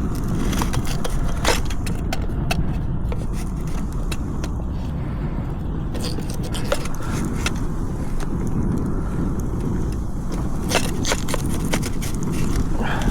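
Wind buffeting the microphone, with scattered clicks, clinks and scrapes of gear being handled, several close together a second or two in and again near the end.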